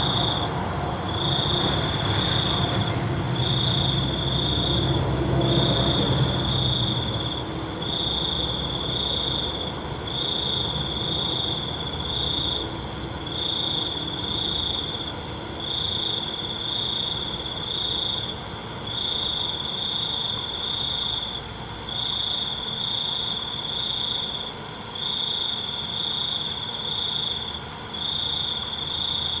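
Crickets chirping at night in repeated trills of about a second and a half, broken by short pauses, over a steady high-pitched buzz of other insects. A low rumble underneath fades out about seven seconds in.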